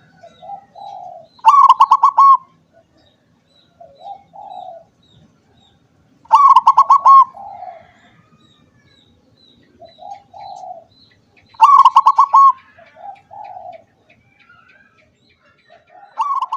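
Zebra dove (perkutut) singing: a loud phrase of rapid rolling coos followed by softer low coos, repeated about every five seconds, three full times with a fourth starting at the end.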